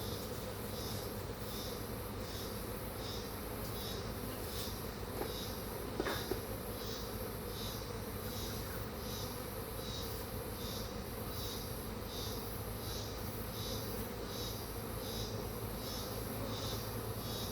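Honeybees swarming around open beehives, buzzing steadily. A high pulsing chirp repeats about one and a half times a second over the buzzing, and there is a brief click about six seconds in.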